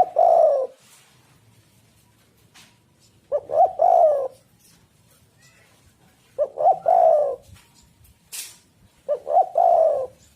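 Spotted dove (tekukur) cooing: four phrases about three seconds apart, each a couple of short notes running into a longer slurred coo.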